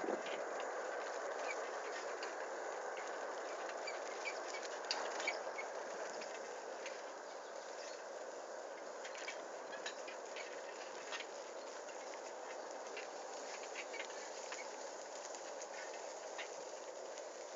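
Bicycle rolling along a forest dirt track: steady tyre noise with many small irregular clicks and rattles.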